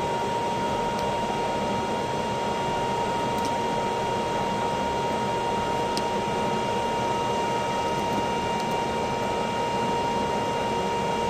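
Steady ventilation hum with a constant high-pitched whine running through it, and a few faint ticks.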